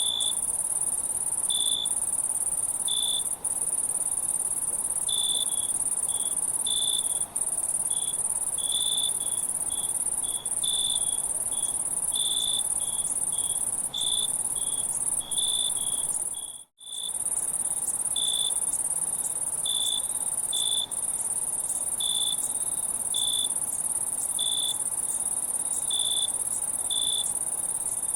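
Chorus of insects, likely crickets: a steady, high-pitched shrill trill with short chirps repeating irregularly beneath it. The sound cuts out for an instant about two-thirds of the way through.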